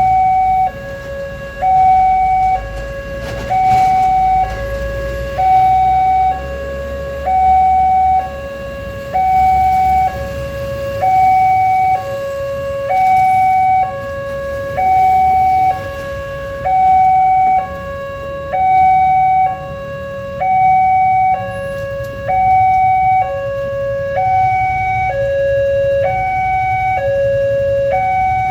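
Railway level crossing warning alarm sounding an electronic high-low two-tone, the two pitches swapping about every 0.8 s in an even cadence: the crossing's signal that a train is approaching and the automatic barriers are closing.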